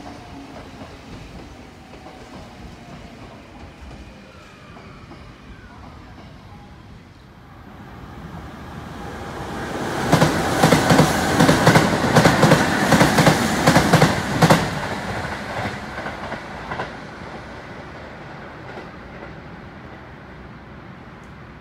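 Electric train passing close by: a rumble builds, then about four seconds of loud, rapid clattering as the wheels run over the rail joints, then it fades away.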